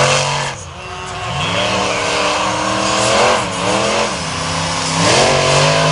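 Monster truck engine revving hard, its pitch rising and falling several times as the throttle is worked: dropping about half a second in, again near the middle, and once more about five seconds in before holding high.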